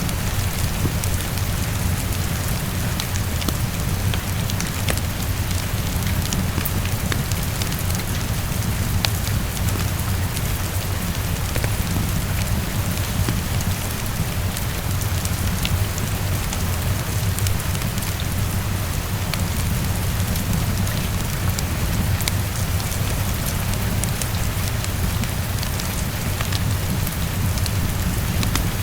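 Heavy rain falling steadily against a window, with a low rumble underneath, and a fireplace crackling in scattered sharp clicks.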